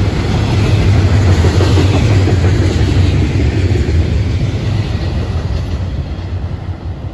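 Freight train's double-stack intermodal well cars rolling past, the wheels rumbling and clattering on the rails. The sound fades over the last couple of seconds as the end of the train goes by.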